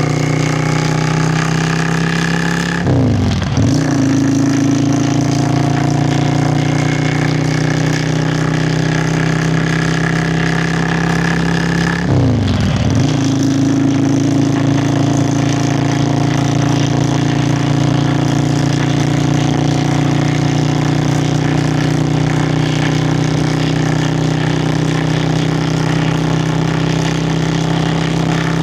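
Yamaha Virago XV535 air-cooled V-twin running on the road under a slowly rising throttle. The engine note dips sharply and recovers twice, about three seconds in and again about twelve seconds in, as on gear changes, then holds steady to the end.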